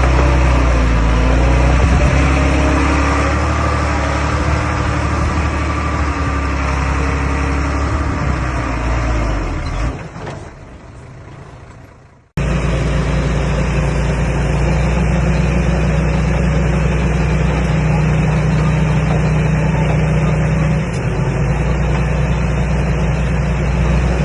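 Komatsu D21A bulldozer's diesel engine running, its pitch wavering in the first couple of seconds. The sound fades away at about ten seconds, then cuts back in abruptly a couple of seconds later and runs steadily.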